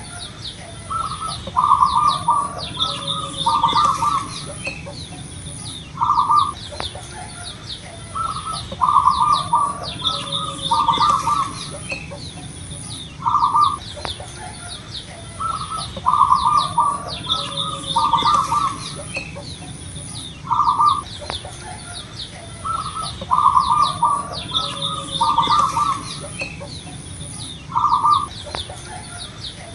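Zebra dove (perkutut) singing its cooing song over and over. Each phrase is a single opening coo, a short pause, then a rolling run of coos, repeated about every seven seconds. Small birds chirp faintly behind it.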